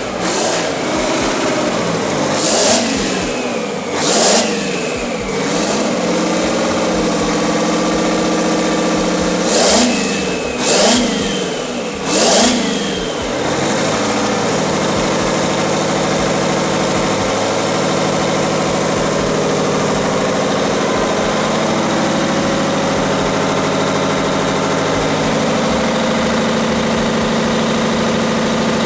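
An old engine revved in a series of quick blips, each rising and falling in pitch, several with a sharp crack at the top. From about halfway through it settles into a steady, even run.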